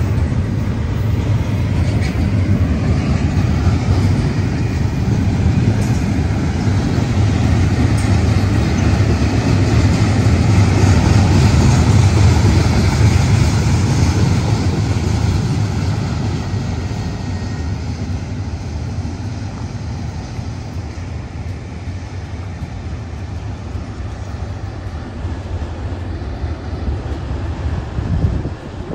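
Double-stack intermodal freight cars of a Florida East Coast Railway train rolling past, a steady rumble of wheels on rails. It fades gradually from about halfway through as the end of the train moves away. There is a short thump near the end.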